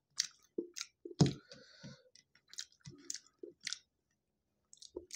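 A person chewing food with the mouth close to the microphone: irregular wet mouth clicks and smacks, the loudest about a second in.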